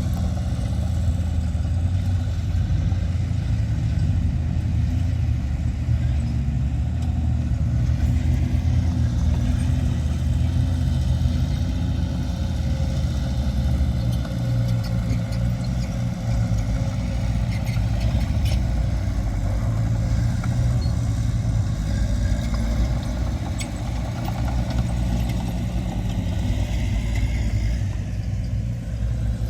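Diesel engine of heavy earthmoving machinery running steadily at a low, even pitch, with a few faint clicks.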